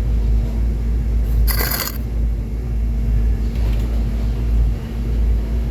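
Steady low vehicle rumble with a faint steady hum. A brief metallic clink comes about one and a half seconds in, and a fainter one a couple of seconds later.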